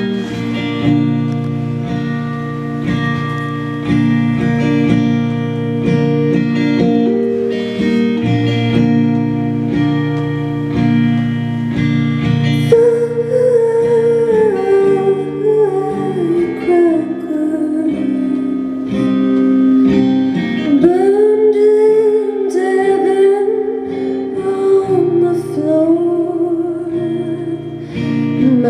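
Live song intro: a guitar picks sustained, ringing chords. About halfway through, a long wavering melody line that slides between notes joins it.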